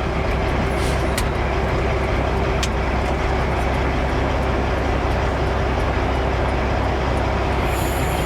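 Heavy dump truck's diesel engine running steadily, with a few sharp clicks in the first few seconds and a short high hiss about a second before the end.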